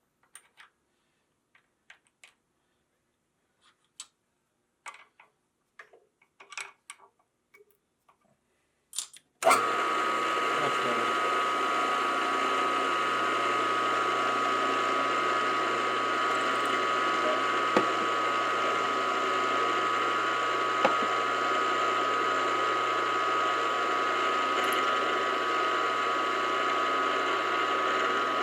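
Small metal clicks and clinks of parts and tools being handled. About a third of the way in, a metalworking machine tool switches on with a click and runs steadily with a high whine.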